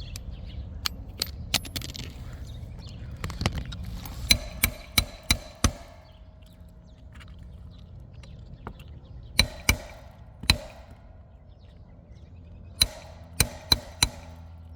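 Hammer striking a roofing snake tool to drive nails under the overlapping shingle: sharp metallic blows in three groups of quick strikes, with a brief ring after some.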